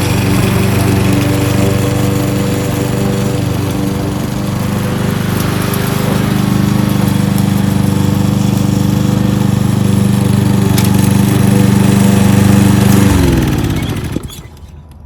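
Kohler XT-675 single-cylinder engine on a push lawnmower running steadily at a constant speed. About 13 seconds in it is shut off and winds down, its pitch falling until it stops.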